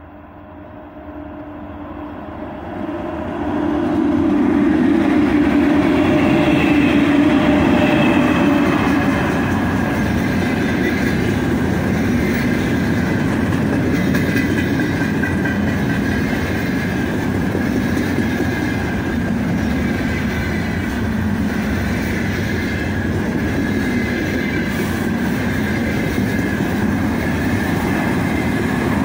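A 3ES5K 'Ermak' electric locomotive drawing near and passing close, growing louder over the first four seconds. It is followed by a freight train of car-carrier wagons rolling steadily past, a continuous rumble with the clickety-clack of wheels over the rails.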